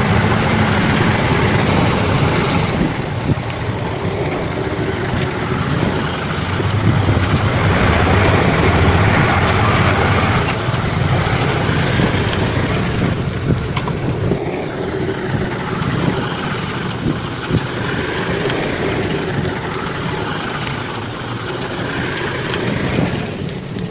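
Bulldozer's diesel engine running steadily, swelling a little partway through, with a few sharp clicks.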